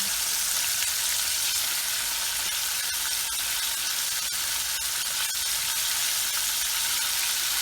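Flour-coated chicken pieces deep-frying in hot oil at medium heat, a steady sizzle with small scattered crackles.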